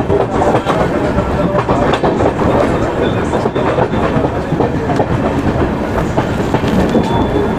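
Patalkot Express passenger train running at speed, heard from the open doorway of a moving coach: steady rolling noise with the steel wheels clattering over rail joints in a quick run of clicks.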